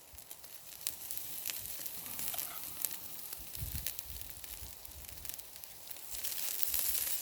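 Chops and vegetables sizzling over campfire coals, a steady hiss with scattered sharp pops and crackles, louder near the end.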